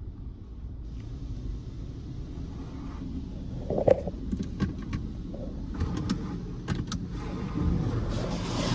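Car running with a steady low rumble and a faint hiss, broken by a few sharp clicks and knocks; the hiss grows louder near the end.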